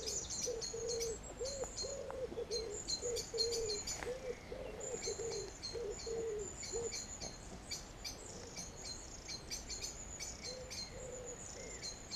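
Woodland birdsong: high, rapid chirping phrases from small songbirds repeat throughout. Under them a lower run of repeated notes carries through the first half and returns briefly near the end.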